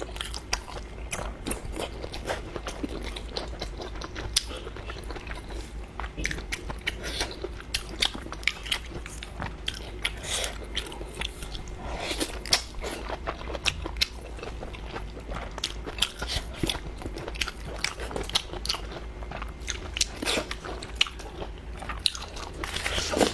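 Close-up eating sounds: a person biting and chewing food with wet, crunchy clicks, irregular and continuous throughout.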